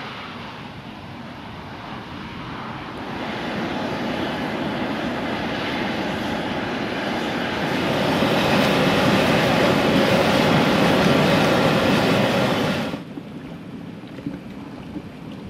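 Steam jetting from a volcanic fumarole: a steady rushing hiss like a jet engine, growing louder over the first several seconds, then cutting off abruptly about 13 seconds in.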